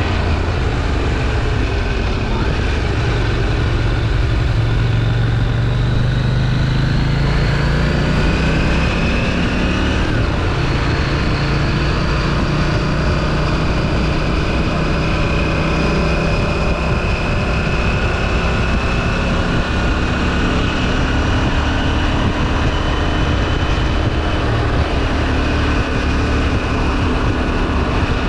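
KTM 790 Duke's parallel-twin engine through its stock exhaust, riding under way. The pitch climbs over the first several seconds as it accelerates, then holds fairly steady at cruise, with a constant low rush of wind and road noise.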